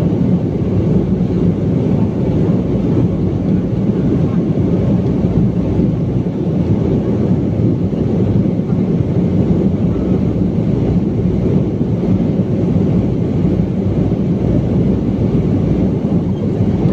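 BAe 146 four-engine jet airliner, a loud, steady low rumble that holds without change.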